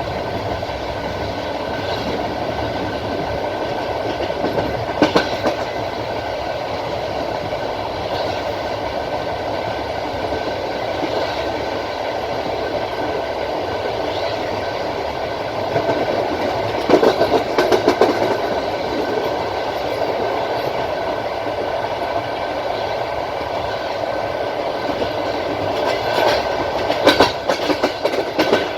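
Passenger train carriage running at speed: a steady rumble, with the wheels knocking over rail joints in short clusters of clicks about five seconds in, around the middle and near the end.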